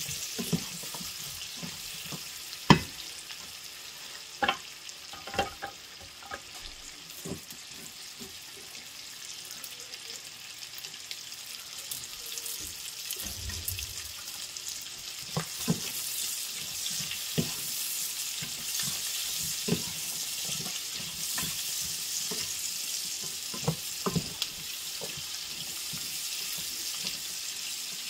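Vegetables (zucchini, carrots, mushrooms and asparagus) sizzling in oil in a non-stick frying pan: a steady hiss. A plastic slotted spoon stirring them knocks against the pan now and then, loudest a few seconds in.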